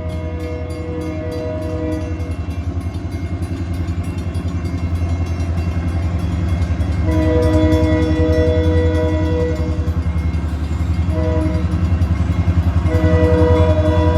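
Grand Rapids Eastern locomotive 2104's multi-chime air horn blowing the grade-crossing signal, long, long, short, long. The first blast comes at the start, the second about seven seconds in, the short one about eleven seconds in and the last near the end. A steady low rumble of the diesel locomotive and train runs underneath.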